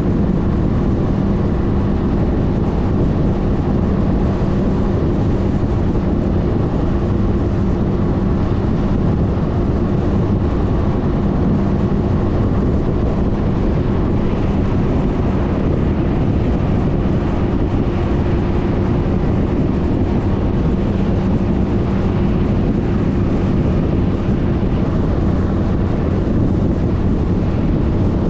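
A Suzuki Burgman 400 maxi-scooter's single-cylinder engine runs at a steady, unchanging pitch. A constant rush of wind and road noise on the helmet- or bike-mounted camera's microphone runs under it.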